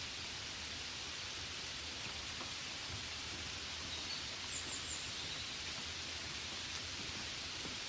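Gentle rain falling steadily on a window, a soft even hiss. A few faint high chirps come about halfway through.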